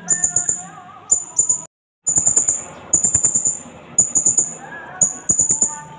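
Blue-crowned hanging parrot (serindit) calling: series of rapid, very high-pitched shrill notes, each burst lasting about half a second and repeated roughly every second. The sound cuts out to silence for a moment just before the two-second mark.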